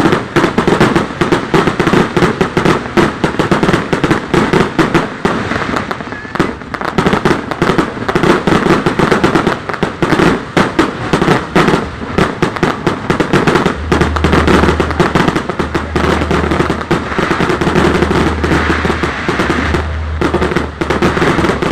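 A fireworks display going off in a dense, continuous barrage of rapid bangs and crackles. A low rumble comes and goes in the second half.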